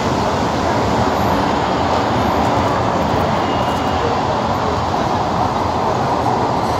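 Abu Qir line passenger train rolling slowly along the platform, with a steady noise of wheels and running gear on the track.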